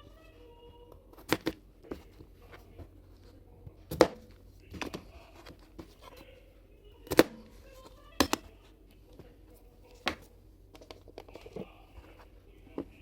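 Irregular sharp knocks and clicks, about seven over several seconds, with faint rustling between them.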